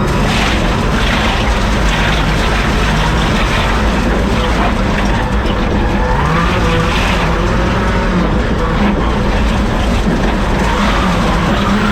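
A rally car driven hard, heard from inside the car: the engine runs loud and steady, its pitch holding and stepping between gears, over tyre and road noise, with brief whines rising and falling.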